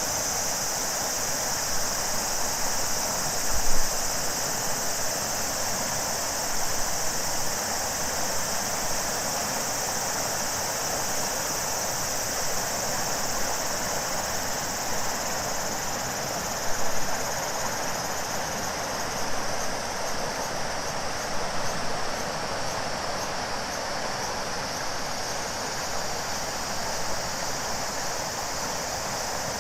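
A steady chorus of summer cicadas, a shrill high band, over the continuous rush of a large flowing river, with a brief low thump about four seconds in.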